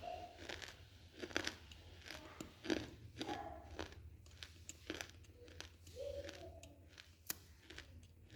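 Close-miked biting and chewing of pieces of baked clay pot, an irregular series of sharp crunches. A steady low hum runs underneath.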